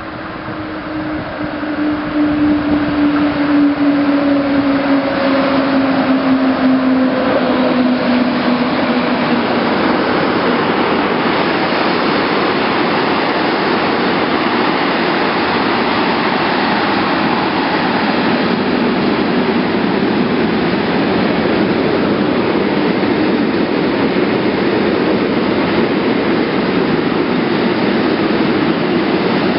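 Train with a DB class 143 electric locomotive passing close by. It swells in quickly, with a tone that slides down over the first ten seconds, then a steady loud rush of wheels on rails.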